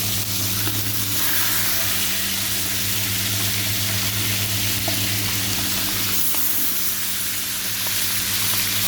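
Chicken pieces sizzling skin side down in very hot oil, frying steadily as they brown. A steady low hum runs underneath.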